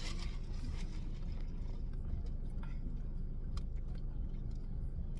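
Steady low rumble of a car cabin, with a few faint clicks of eating.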